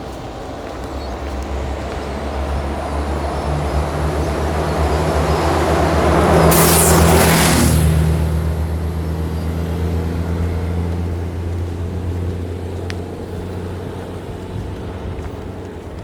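A motor vehicle passing close by on the road: its engine noise builds to a peak about seven seconds in, with a brief rush of noise as it goes past, then fades away.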